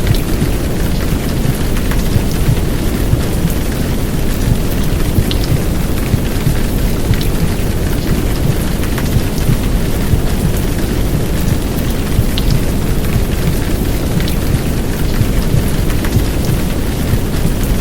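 Heavy downpour of rain mixed with a steady, deep rushing noise of the kind used as recorded womb sound, with an occasional sharper drop ticking through.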